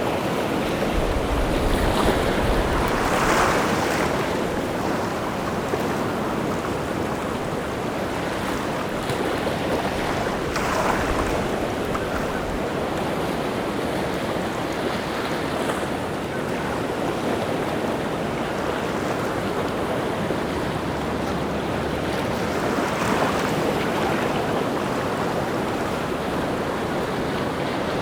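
Rough sea surf breaking on the shore in strong wind: a steady rush of waves that swells louder now and then as bigger waves break.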